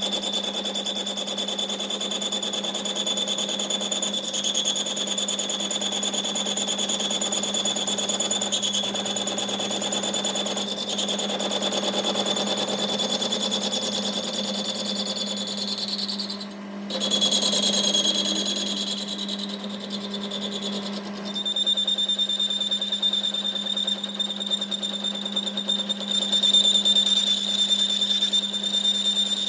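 A workshop machine running steadily with a constant high whine over a low hum. It cuts out briefly a little past the middle, its whine shifting for a few seconds before settling back.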